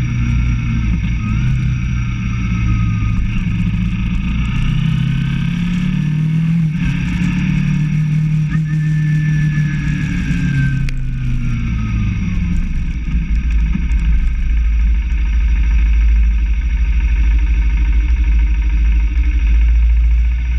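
Motorcycle engine running as the bike rides: its pitch rises about four seconds in, holds steady, then falls away around twelve seconds in. After that a louder, even low rumble takes over.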